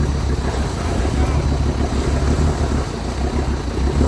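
Off-road 4x4 vehicle engine running at low revs, a steady low rumble.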